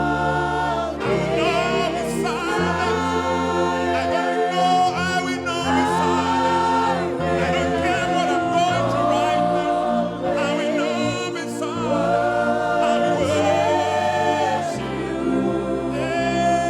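Gospel choir and congregation singing a worship song, voices holding long notes over a low accompaniment that changes chord every second or two.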